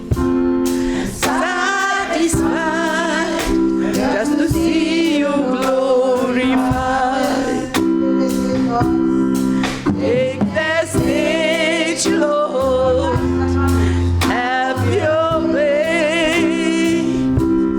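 Gospel singing with vibrato over instrumental backing of held chords, with a deep bass note entering about two-thirds of the way through.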